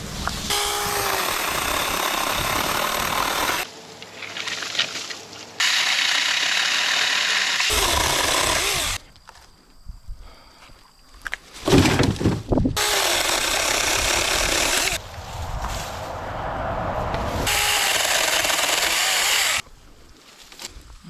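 Saker battery-powered mini chainsaw with a 4-inch bar cutting a branch, running in several bursts of a few seconds with short pauses between cuts. A few loud knocks come around the middle.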